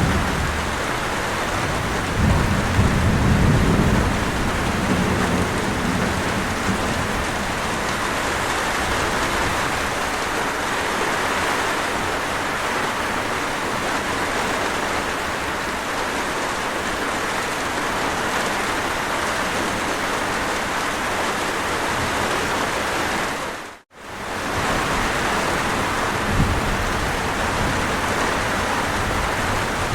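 Steady, heavy rain falling, with a low rumble of distant thunder a couple of seconds in. Near the end the sound briefly fades out and straight back in.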